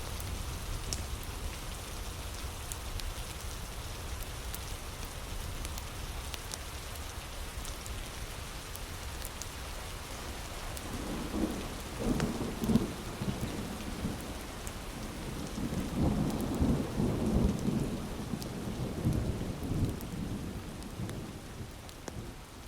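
Steady heavy rain with sparse small crackles of a wood fire. About halfway through, thunder rolls in with an irregular rumble lasting several seconds, then it all fades out near the end.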